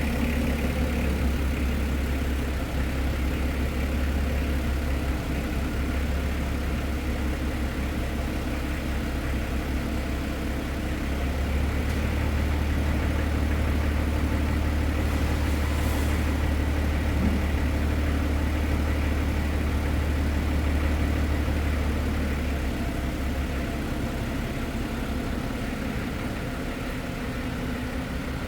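A large engine running steadily at a constant speed, with a deep drone and no revving.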